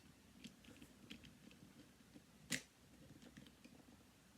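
Faint small clicks of plastic puzzle-cube pieces being handled and fitted into a partly disassembled V-Cube 7, with one sharper click about two and a half seconds in.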